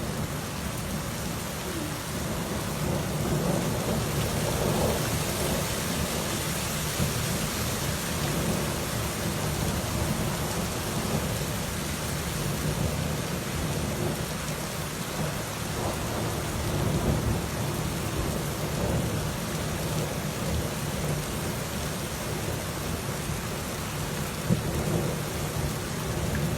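Torrential thunderstorm downpour: rain hissing steadily on surfaces, with thunder rumbling and swelling underneath. A single sharp knock comes near the end.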